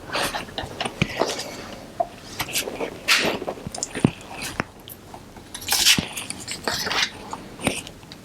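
Small plastic accessory parts and packaging being handled: irregular clicks, taps and crinkly rustles.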